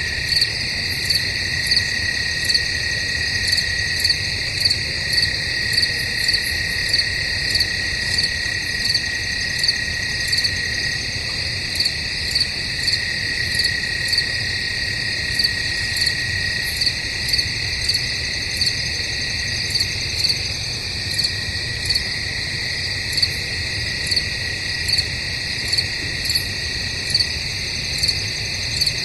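Night chorus of crickets chirping: a steady high trill underneath, with a louder chirp repeating evenly about one and a half times a second.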